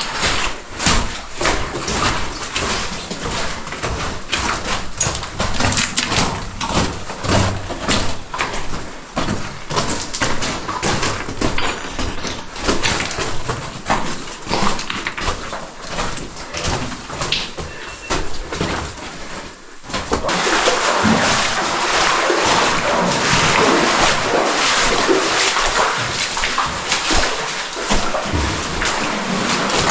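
Splashing and sloshing footsteps of people wading through shallow cave water, with irregular knocks and splashes. About two-thirds of the way in, the sound switches abruptly to a louder, steady rush of flowing water.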